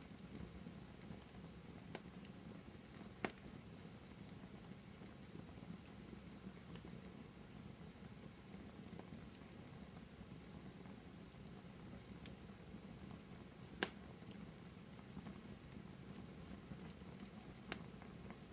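Fire burning in a fireplace: a steady soft crackle with scattered sharp pops, two of them louder, about three seconds in and about fourteen seconds in.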